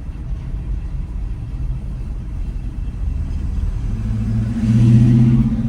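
Vehicle engine rumble. A louder, steady engine drone swells about four seconds in.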